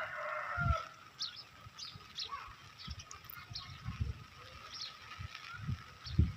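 Small birds chirping in short, scattered calls over a faint steady high tone. Low thumps are heard now and then.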